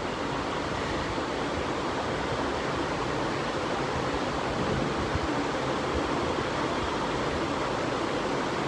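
Ceiling fan running, a loud, steady rush of air noise with no distinct hum or rhythm.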